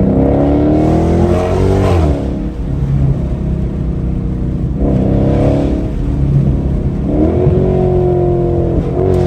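Dodge SRT V8 engine accelerating hard, heard from inside the cabin. The engine pitch climbs, falls sharply at a gear change about two seconds in, then climbs again twice.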